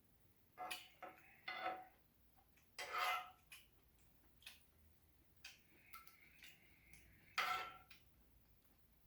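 Eating utensils clinking and scraping against a ringing bowl, a handful of separate clinks with pauses between them, the loudest near the end.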